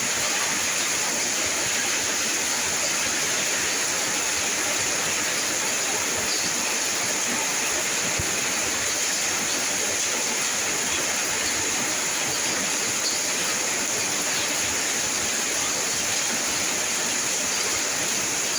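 Steady rain falling, an even unbroken hiss that neither swells nor fades.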